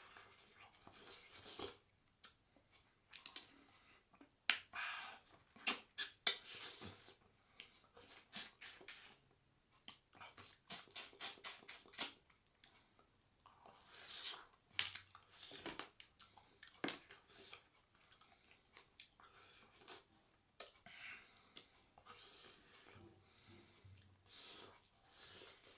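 A person chewing food with their mouth close to the microphone: wet, noisy chews in irregular bursts with short pauses, and a quick run of sharp clicks near the middle.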